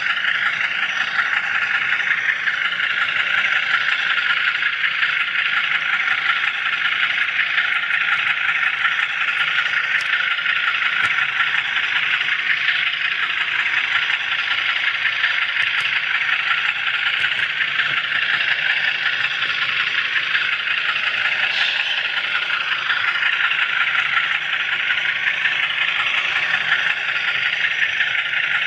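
HO scale model train and camera car running along the layout's track: a steady whirring rattle of small wheels and motor with no let-up.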